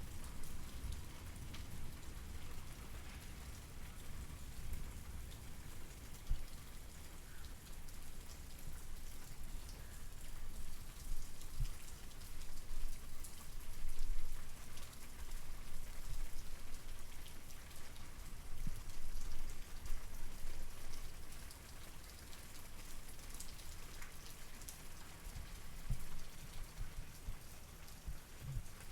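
Steady rain falling, with many small drops pattering on a surface and a low rumble underneath.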